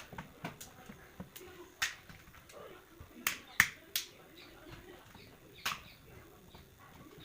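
Sharp plastic clicks and snaps, several spread irregularly, the loudest about three and a half to four seconds in, from the plastic housing of a Samsung E2252 phone being pried open.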